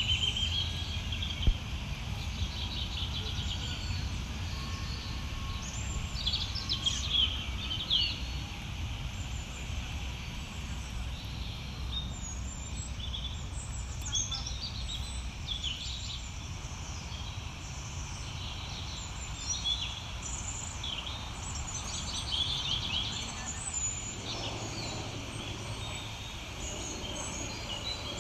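Several birds chirping and trilling in short, repeated calls, over a steady low rumble. One sharp click about a second and a half in.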